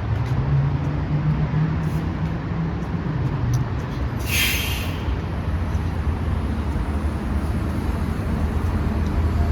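Metrobus engine idling with a steady low rumble, and a short hiss of air about four seconds in, as from its air brakes.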